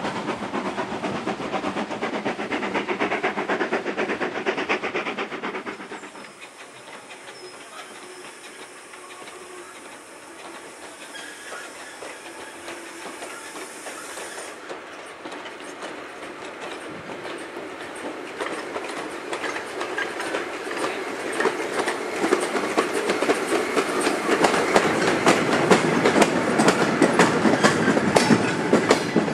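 Train approaching and running past close by, its wheels clattering over the rail joints in a rapid rhythm that gets steadily louder for about twenty seconds. Before that, a few seconds of louder running noise cut off abruptly.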